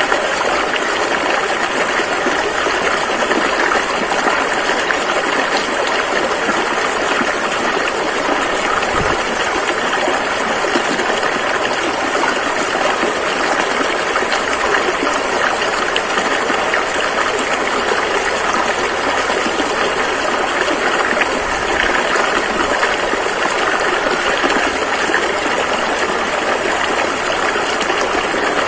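Rushing river water flowing steadily, an unbroken rush of noise.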